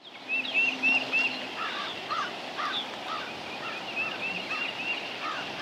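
Several birds singing and calling: runs of quick repeated high chirps near the start and again near the end, over lower rising calls, with a steady outdoor hiss behind.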